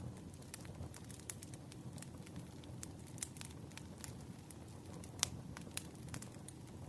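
Burning firewood crackling: scattered sharp pops over a low, steady rumble of flames, with one louder pop about five seconds in.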